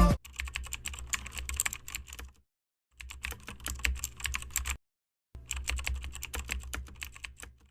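Rapid, irregular clicking of keyboard typing, in three stretches broken by two short silences of about half a second.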